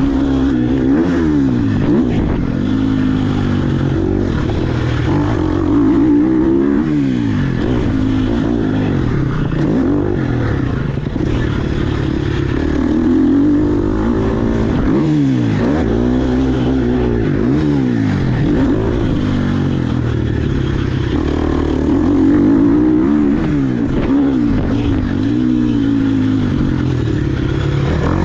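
KTM SX150 two-stroke dirt bike engine being ridden hard, its pitch climbing and dropping over and over every second or two as the throttle is opened and closed.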